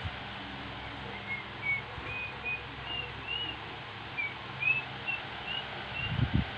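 Steady hum of an electric stand fan, with a run of short high bird chirps, a little over two a second, each sliding slightly up or down in pitch.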